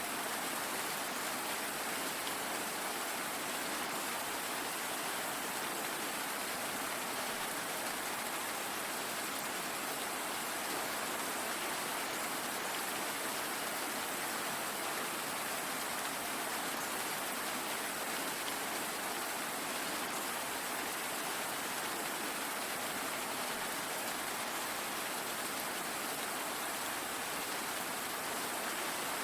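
Steady rain falling, an even hiss of many drops with no thunder or distinct single drips.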